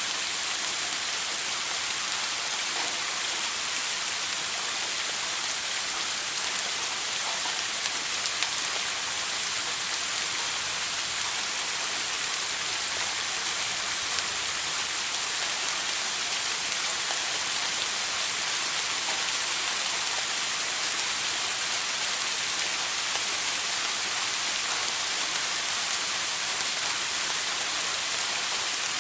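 Shower water spraying and splashing steadily, an even hiss of falling drops that does not change.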